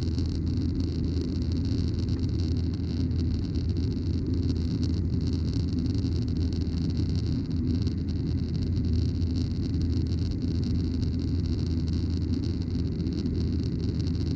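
Steady cabin noise of a Boeing 737-900ER in climb: a constant low engine and airflow drone with a hiss above it, level and unchanging.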